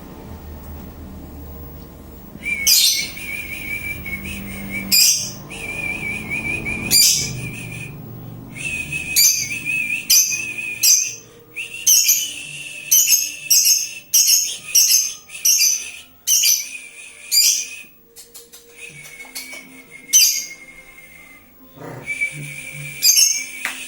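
Lovebird calling in a string of rapid trills, each lasting one to two seconds, with sharp high chirps between them; the calls begin about two and a half seconds in.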